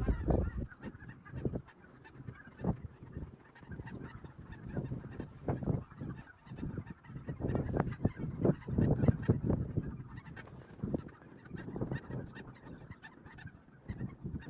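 A flock of snow geese calling, many short honking calls overlapping thick and fast.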